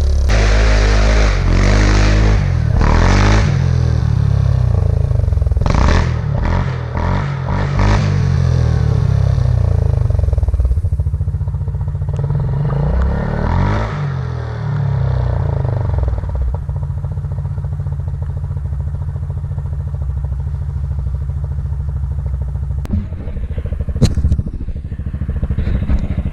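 Yamaha Grizzly 700 ATV's single-cylinder four-stroke engine revving hard and falling back several times, with clatter and scraping from the machine working through snow. After about sixteen seconds it settles to a steadier, lower run, with a couple of sharp knocks near the end.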